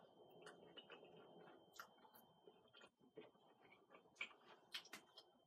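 Faint chewing of a mouthful of pizza: soft, irregular mouth clicks, with a faint steady high tone underneath.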